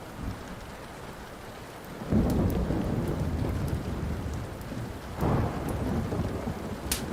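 Steady rain with a roll of thunder that rumbles in about two seconds in and swells again past the middle. A few sharp crackles from a wood fire, the loudest near the end.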